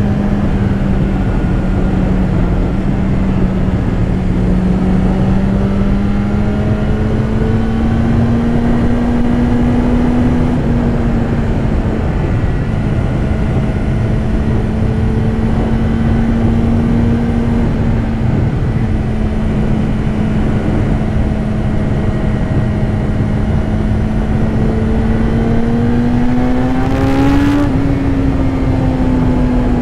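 BMW S1000RR's inline-four engine running at steady cruising revs under heavy wind rush on the rider's microphone. The engine note rises briefly near the end and settles back.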